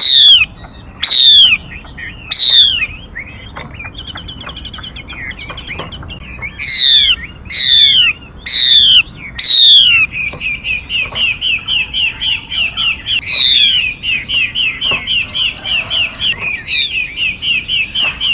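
Call of a female mi bird played as a trapping lure: loud, sharp down-slurred whistles given singly or in quick pairs, and from about halfway a fast, even run of short chirping notes that carries on to the end.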